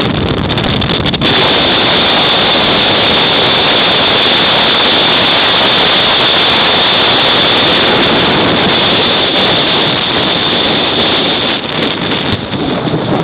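Loud, steady rushing wind buffeting the microphone, with a brief dip about a second in and some unevenness near the end.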